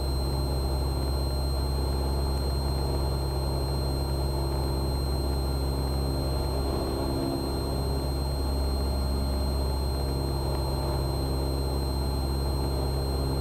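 Cessna 172R's Lycoming IO-360 four-cylinder engine and propeller droning steadily in cruise-pattern flight, with a thin steady high whine over it.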